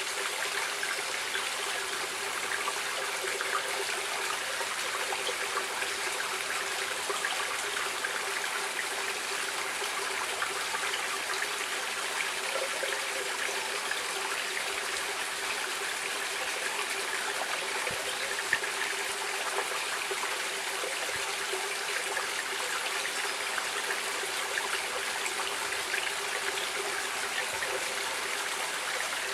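Stream water flowing and trickling steadily, a continuous even rush with small splashes and a faint hum underneath.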